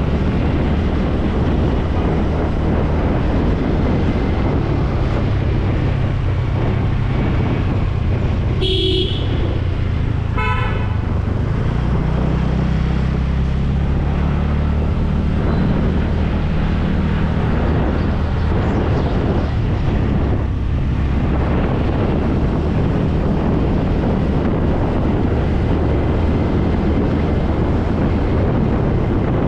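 Motorcycle engine running under road and wind noise in traffic, its pitch shifting about twelve seconds in. A vehicle horn toots briefly about nine seconds in and again a second or so later.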